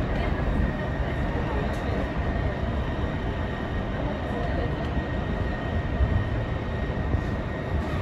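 Jōshin Electric Railway electric train running along the line, heard from inside the train: a steady rumble of wheels on rail with a thin, steady high whine.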